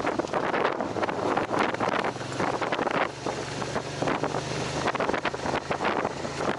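Wind buffeting the microphone of a moving motorcycle in uneven gusts, with the steady hum of the motorcycle's engine underneath.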